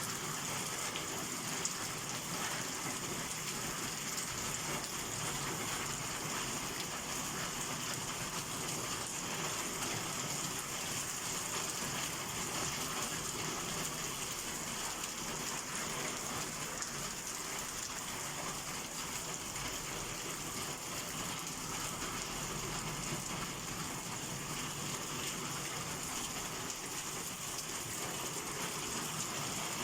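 Heavy summer rain falling steadily in a downpour, a dense even patter on surfaces.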